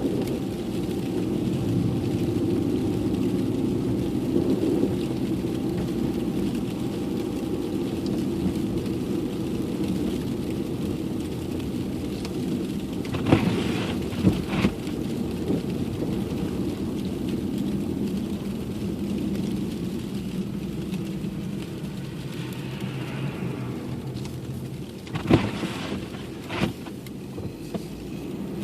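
Steady car cabin noise while driving: engine and tyre rumble on a snowy road. A few short sharp knocks come about halfway through and again near the end.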